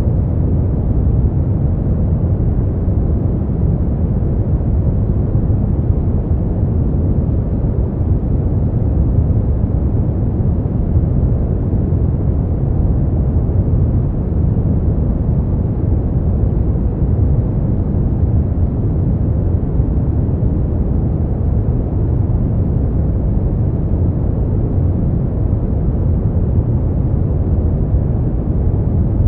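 Continuous sleep noise sold as white noise, steady and unchanging; it is deep and muffled, with little hiss at the top, closer to brown noise than true white noise.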